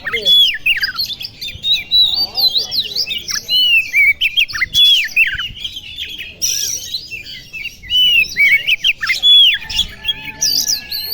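Oriental magpie-robin (kacer) singing a fast, continuous run of loud arched and slurred whistles, with a short harsh rasp about six and a half seconds in.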